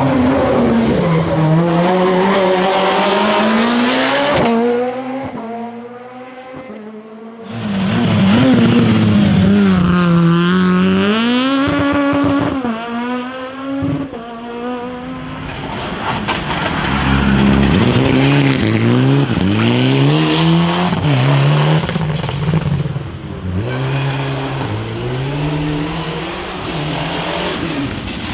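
Rally car engines at high revs on a special stage, the engine note climbing and falling over and over through gear changes and lifts off the throttle. In the second half come quicker rises and falls, as with blips on downshifts.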